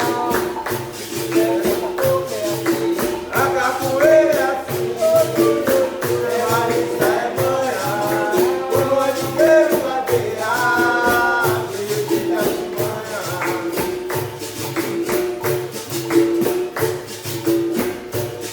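Capoeira music played live: a pandeiro jingling in a steady rhythm over a repeating low twanging note, with a voice singing over them in places.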